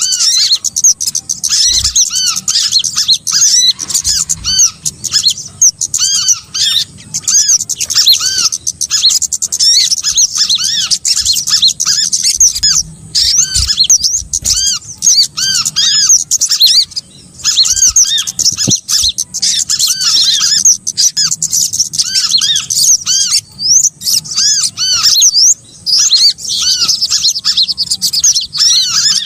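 Bird-lure recording of a flock of small songbirds chirping together: many quick, high, arched chirps overlapping in a dense, continuous chatter, with a couple of brief lulls.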